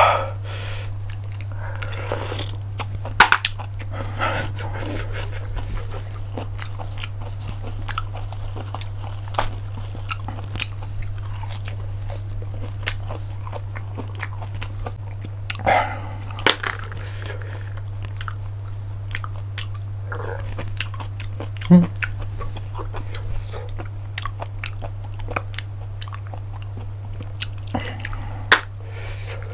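Close-up eating of cockles: chewing and mouth sounds with many sharp little clicks, a few louder ones, over a steady low hum.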